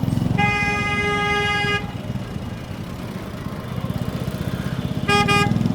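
TVS Apache RTR 4V's single-cylinder engine running through its exhaust while riding, with a steady low pulsing. A vehicle horn sounds for about a second and a half early on, and a shorter, louder horn blast comes near the end.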